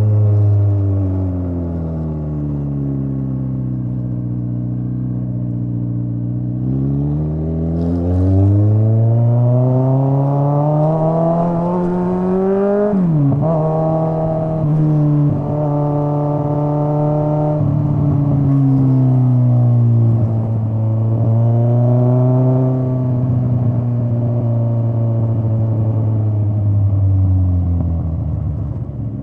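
Straight-piped Kawasaki Z900 inline-four exhaust while riding. The revs wind down at first, then climb with a rising pitch for about six seconds and drop sharply at a gear change. The engine then holds steady cruising revs and eases off near the end.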